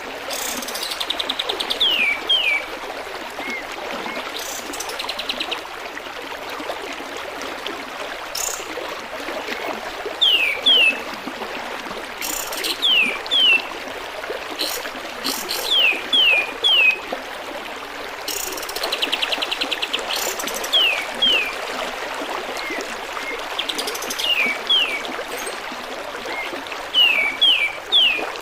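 Kapas tembak bird singing: repeated pairs of quick, sharply falling whistled notes with a few short buzzy rattles, over the steady babble of flowing water.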